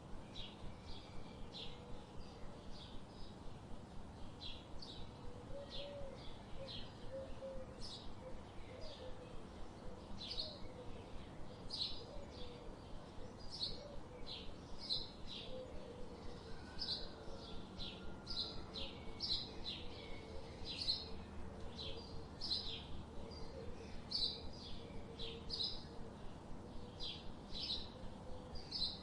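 Small birds chirping: short, high chirps repeating about once or twice a second, with a faint lower warbling call underneath.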